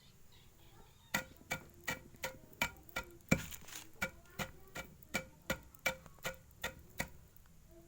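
A pigeon pecking at dried rice feed on a hard surface: a run of sharp, evenly spaced clicks, about three a second, with a short rustle a little after two seconds in.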